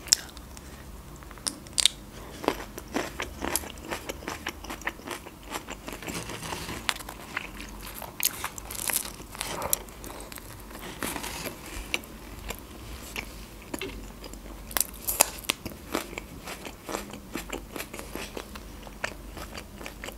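Close-miked biting and chewing of crusty Turkish pide, with irregular crunches and crackles.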